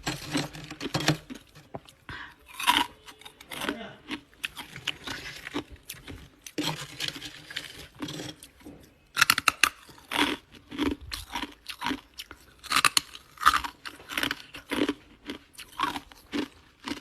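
Close-miked crunching and chewing of ice, with a quick run of sharp cracks and crackles as the ice is bitten and ground between the teeth.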